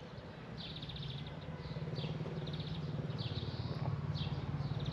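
Birds chirping in repeated short high phrases, over a low steady drone that grows louder from about a second in.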